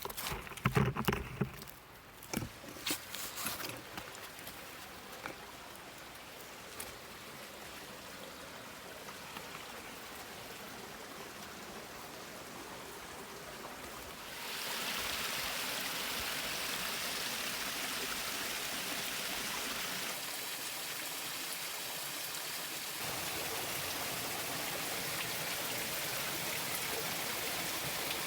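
Stream water running over rocks, a steady rushing that grows louder about halfway through. A few footsteps crunch on gravel in the first few seconds.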